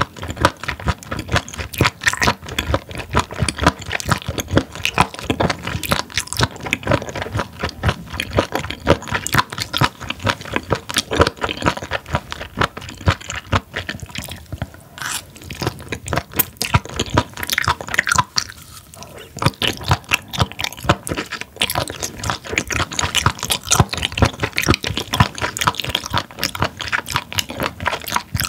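Close-miked chewing of raw spoon worm (gaebul): a dense run of crisp, crunchy, wet bites, with two short lulls in the middle.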